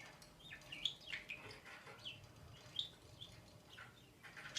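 Budgerigar chirping: a string of short, high chirps, some sliding in pitch.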